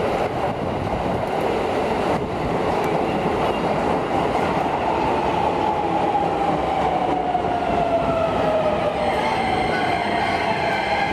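Subway train running with a steady rumble and hiss. In the second half a whine slides slowly down in pitch.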